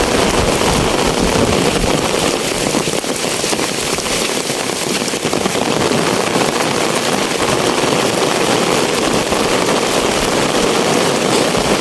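Rain pouring steadily, a dense hiss with a fine crackling patter of drops.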